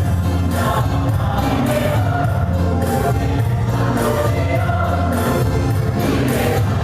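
A choir singing with musical accompaniment over a steady bass.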